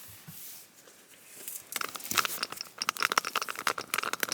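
Rapid crackly rubbing and crinkling close to the phone's microphone, starting about a second and a half in, as the dirty phone camera lens is wiped clean.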